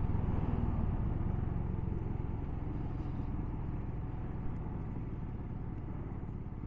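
Motorcycle engine running on the move with wind and road rumble, growing gradually quieter.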